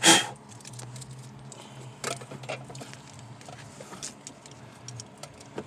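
One loud clack at the very start, then scattered light clicks and rattles of car wiring connectors and clips being handled, over a low steady hum.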